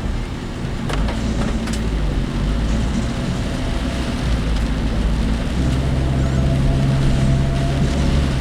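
Cabin noise of a moving work vehicle: a steady low engine and road rumble with a few sharp rattles about a second in. A steady engine hum comes up for a couple of seconds past the middle.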